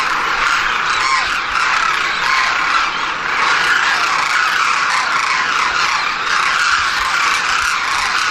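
A large flock of birds calling all at once: a loud, continuous chatter of many overlapping high chirps with no break.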